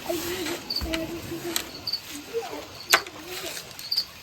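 Repeated short, high double chirps, from an insect or a small bird, about once a second. Two sharp knocks cut in, the louder one about three seconds in, and a faint low wavering voice comes and goes.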